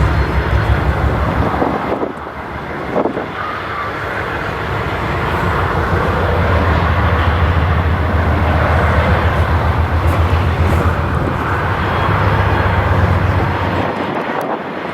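Freight train running past, a loud steady low rumble of diesel locomotive engines and rolling cars. It dips briefly about two seconds in, swells again, and eases off near the end.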